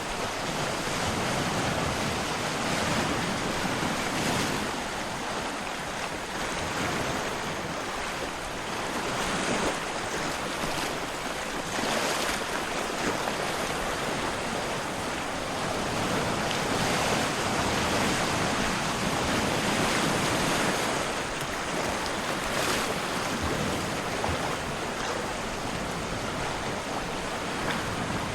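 Steady rushing of water, a continuous hiss that slowly swells and eases in loudness.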